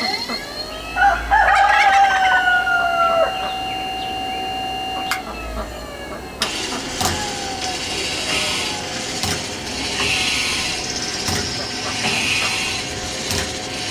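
Woodland Mills electric bandsaw blade sharpener switched on at low speed. After a few seconds its grinding wheel starts working the teeth, a hissing grind that swells about once a second as the blade feeds tooth by tooth. A rooster crows near the start.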